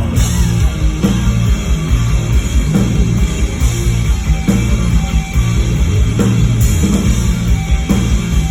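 Live rock band playing at full volume, with distorted electric guitar, bass and drums. The full band crashes in right at the start, straight after a count-in.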